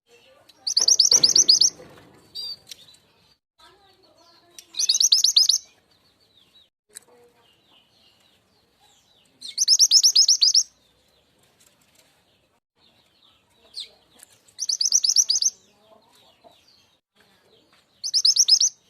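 Mantenan gunung (truntung weru) song played as a bird-trapping lure: five loud, fast, high-pitched trills about a second long, repeated every four to five seconds, with faint scattered chirps between them.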